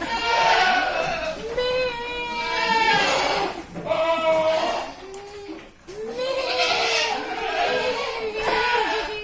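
Several goats bleating over one another, a run of long overlapping calls with a short lull about five to six seconds in: the herd calling to be fed.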